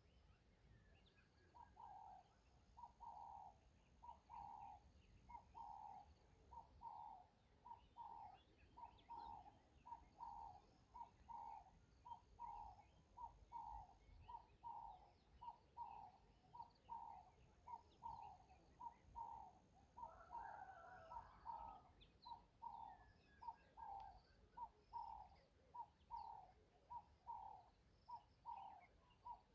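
A bird calling faintly in the background, one short note repeated about twice a second in a long, even series.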